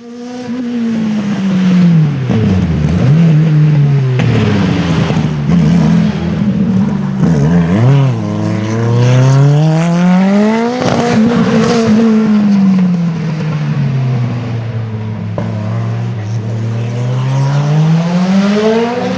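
Rally car engine at high revs, its pitch climbing and falling several times as the car accelerates, lifts off and drives past on a stage.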